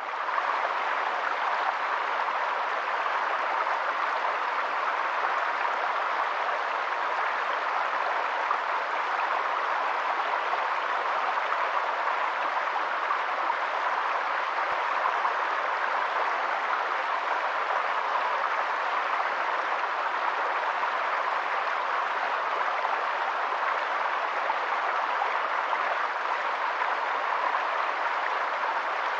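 Steady hiss of running water, even and unchanging throughout.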